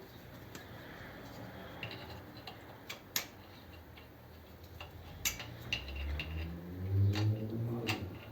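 Small metal clicks and taps of hand tools and small carburetor parts as the accelerator pump squirter is worked loose on a carburetor. A low hum rises near the end.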